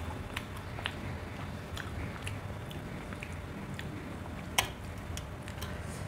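Close-miked chewing and mouth clicks of a person eating roti with egg curry by hand, with one sharp click about four and a half seconds in. A steady low hum runs underneath.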